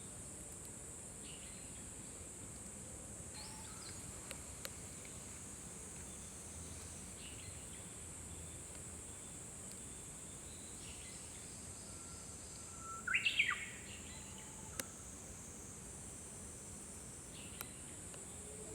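Japanese bush warbler singing: one loud song about two-thirds of the way in, a held whistle that breaks upward into a quick flourish, with fainter, more distant phrases before and after. A steady high insect drone runs underneath, with a few faint clicks.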